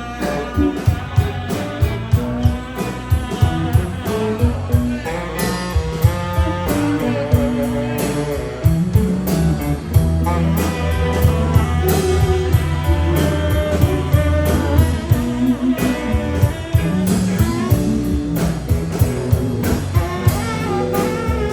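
Instrumental music led by guitar: picked notes over a steady, regular beat and a sustained bass.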